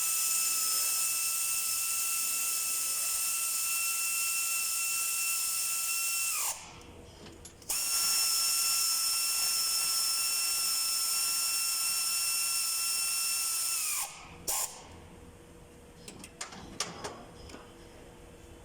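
A power tool runs twice, about six seconds each time, with a steady high whine and hiss that winds down in pitch as the trigger is released; a few light metal clicks follow near the end.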